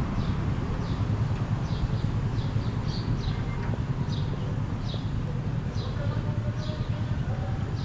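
Small birds chirping in a steady series, short falling chirps about twice a second, over a constant low rumble of street ambience.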